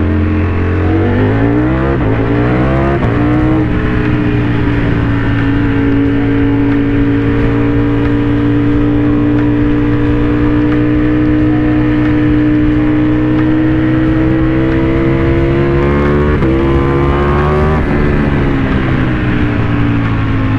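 Motorcycle engine accelerating hard and revving up through the gears. The pitch climbs and drops at a gear change about three seconds in, then pulls long and slowly rising in a higher gear. It climbs again and drops at another shift near the end.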